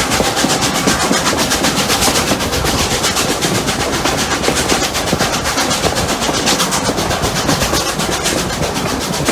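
Steam locomotives Rx207 and 621 working up a climb, heard from on board the train: a steady, rapid run of exhaust beats over the running noise of the train.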